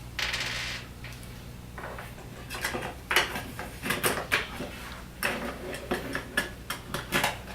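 Small plastic and metal parts of a Hunter Douglas vertical-blind headrail track being worked by hand, with a brief scrape near the start and then a string of sharp clicks and knocks as the lock washer is pulled and the stripped sprocket is swapped.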